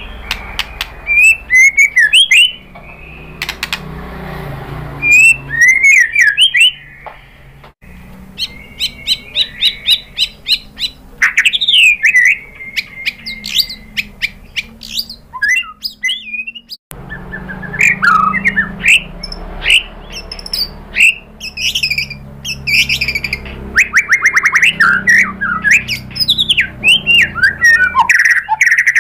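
White-rumped shama (murai batu) singing a loud, varied song of gliding whistles, rapid trills and sharper notes in quick phrases. The song breaks off suddenly twice.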